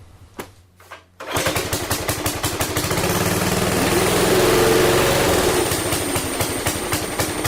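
Go kart's small gas engine catching about a second in after a couple of clicks and running with rapid regular firing pulses, growing louder in the middle as it revs, then easing back to a steady run.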